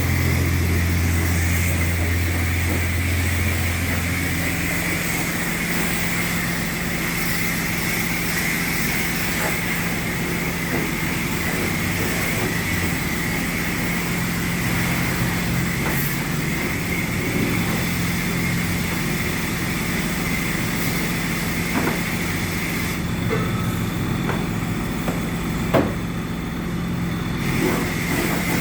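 Cummins diesel engine running with a deep, steady drone that stops about five seconds in, over a steady mechanical hum and hiss that carries on throughout. A few light clicks come near the end.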